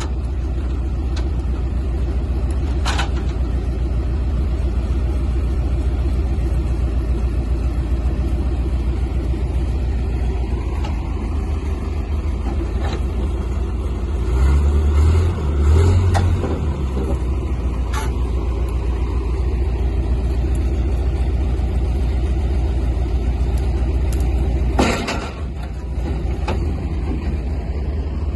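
Heavy vehicle engine running steadily, its low rumble swelling louder for a couple of seconds about halfway through. Near the end a short sharp sound is followed by a dip in the engine sound.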